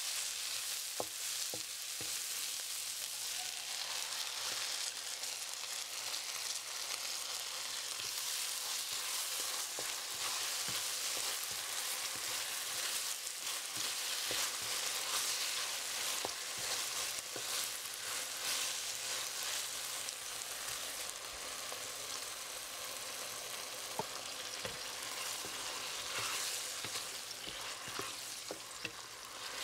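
Diced vegetables and meat sizzling as they are stir-fried in a hot nonstick pan, with a wooden spatula stirring and scraping through them in frequent small taps and scrapes against the pan.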